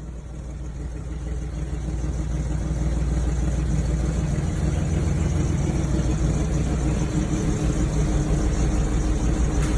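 Motor vehicle engine running steadily, a low hum that grows louder over the first few seconds and then holds.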